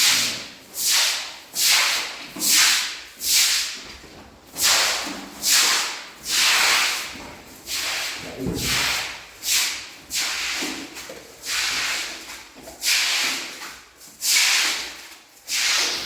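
Repeated rough rubbing or scraping strokes worked by hand on a surface, a little more than one stroke a second, in an even rhythm.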